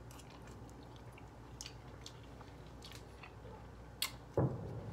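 A person chewing a mouthful of food, close to the microphone, with faint wet mouth clicks and smacks. About four seconds in there is a sharper click, followed by a short, louder low hum from the throat.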